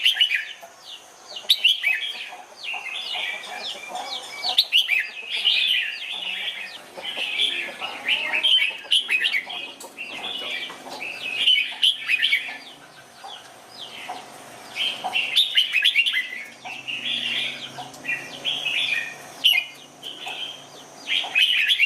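Red-whiskered bulbuls singing: short, quick warbled phrases, one after another with brief pauses between them.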